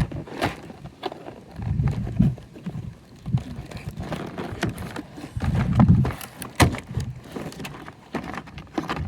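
Toy packaging being handled and opened by hand: irregular knocks, thumps and rustles of cardboard and plastic.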